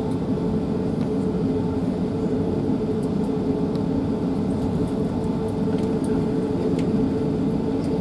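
Steady hum of cabin noise inside an Airbus A380 after landing, with a steady tone running through it and a few faint ticks.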